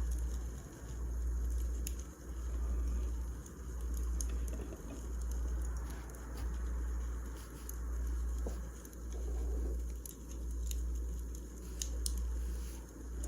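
Wood fire crackling, with scattered sharp pops and ticks over a low rumble that swells and fades in a slow, even rhythm.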